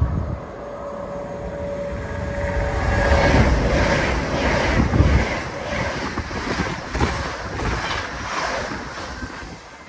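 LNER Azuma (Hitachi Class 800) high-speed train running through the station at speed without stopping. The rush of wheels and running gear builds as it approaches, is loudest about three to five seconds in as the front cars pass, and carries a repeated clatter of wheels as the carriages go by before easing off. Wind buffets the microphone.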